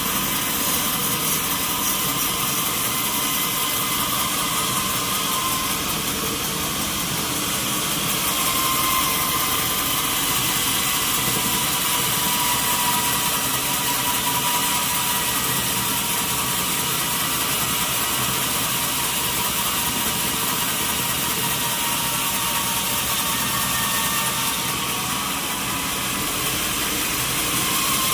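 Sawmill machinery running steadily: a continuous mechanical noise with a faint whine that wavers slightly in pitch.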